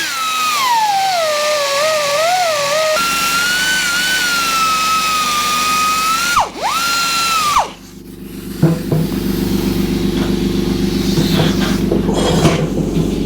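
Small belt grinder working the edges of a motorcycle cylinder head with its radius wheel: a whine that drops and wavers in pitch as the metal is pressed against the belt, dipping once and stopping a little past halfway. After that a steadier, lower hum runs on.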